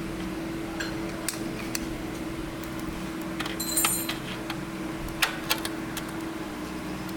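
Light clicks and clinks of small hard objects being handled, with a brief ringing metallic jingle near the middle, over a steady low hum.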